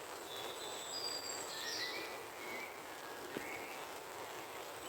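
Woodland birds calling with short, thin whistled notes over a steady background hiss.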